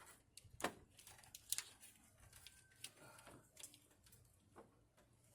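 Scattered clicks and knocks of hoses and clamps being handled and worked into place during a coolant hose repair. The two loudest come about two-thirds of a second and a second and a half in, with fainter ones after.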